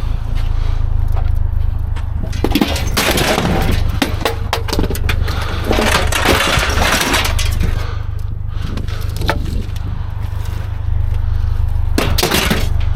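Junk being handled and broken: scraping, cracking and clattering of debris, heaviest from about three seconds in to about seven seconds and again near the end, over a steady low rumble.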